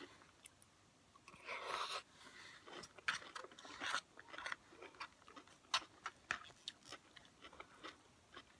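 A person chewing and crunching food close to the microphone, faint, with short crackly crunches and clicks scattered through and a longer crackling noise about a second and a half in.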